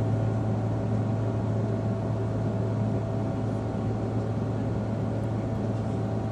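Steady cabin noise of an Emirates Airbus A380 in flight: an even rush of engines and airflow with a constant low hum.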